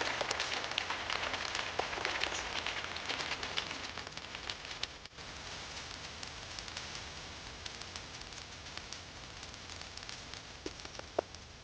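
Rain falling: a steady hiss full of small drop ticks that slowly grows fainter, with a brief dip about five seconds in.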